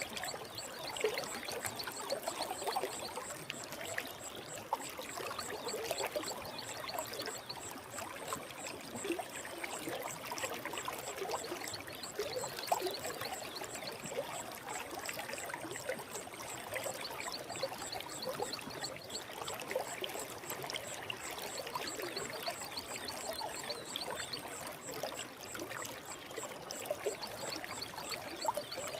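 Stream of water flowing steadily, with constant gurgling and trickling.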